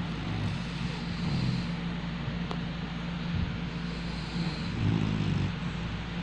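A dog snoring: two low snores, about a second in and about five seconds in, over a steady low hum and hiss.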